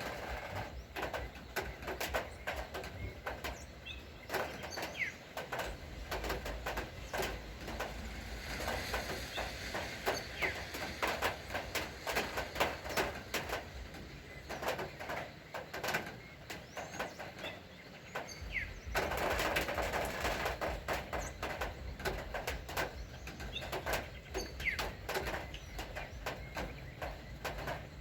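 Steady rain falling, with many small drips and taps, and birds chirping over it. The rain gets louder about two-thirds of the way through.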